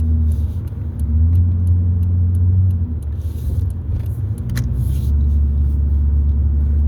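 Steady low rumble, loud and continuous, with scattered light clicks and two brief soft hisses about three and five seconds in.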